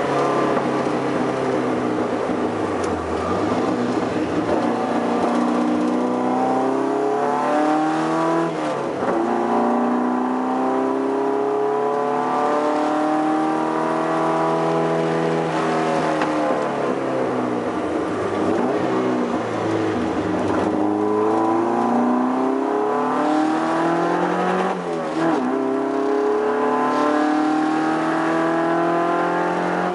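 Toyota TA22 Celica race car's 18R-G twin-cam four-cylinder engine under hard driving. The engine note climbs steadily and then drops back again and again, as the car accelerates through the gears and slows for corners.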